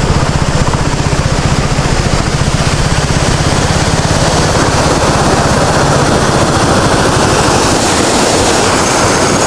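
Motorcycle engine running under a loud, steady rushing noise. The engine's low hum is strongest in the first few seconds and fades back after about four seconds, while the rushing continues.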